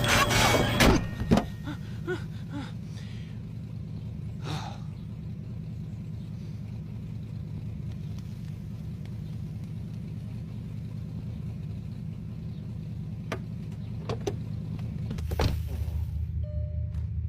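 A car running with a steady low rumble, with a few scattered light clicks and a thunk. The rumble grows louder near the end.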